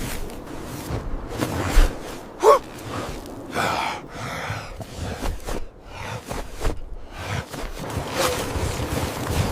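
A person gasping, with short rising vocal sounds about two and a half and three and a half seconds in, among brief rustling noises.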